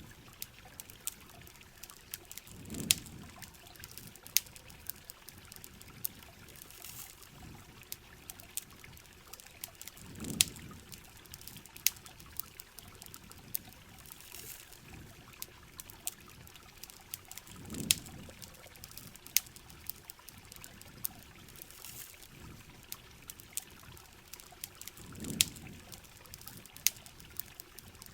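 Steady heavy rain, with a campfire crackling in scattered sharp pops. A low rushing swell that falls in pitch comes back about every seven and a half seconds.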